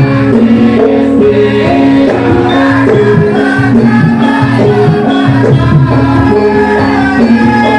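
Live Javanese gamelan music accompanying a lengger mask dance: loud, continuous, with sustained pitched notes stepping through a melody over a steady pulse.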